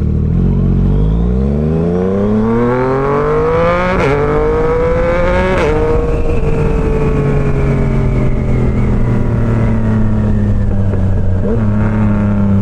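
Yamaha MT-09's three-cylinder engine accelerating hard, its note rising through the gears with shifts about four and five and a half seconds in, then holding a steady, slowly falling note as the bike cruises. Wind noise rumbles on the helmet-mounted camera's mic.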